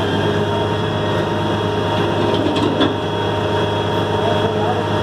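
Heavy truck engine running steadily with a constant low hum, during a tow-crane recovery of a dump truck; a short knock a little before the three-second mark.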